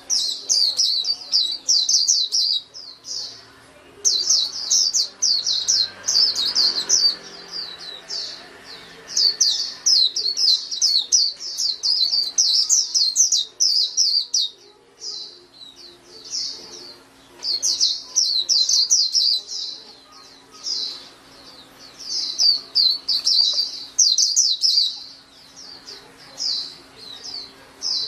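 Pleci (white-eye) singing a fast, high twittering song in phrases a few seconds long, broken by short pauses.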